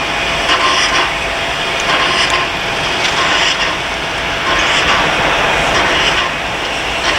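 Passenger train running along the track: a steady rolling rumble with a brighter hiss that swells about once a second.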